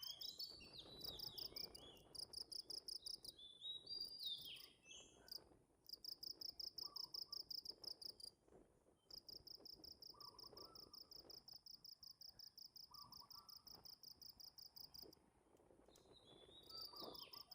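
Faint insect chirping in rapid, evenly pulsed trains that start and stop, with short bird calls near the start, about four seconds in and near the end.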